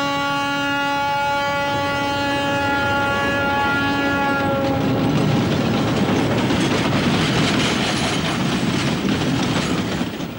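Train horn sounding one long, steady note that stops about five seconds in, then the train rumbling and clattering past.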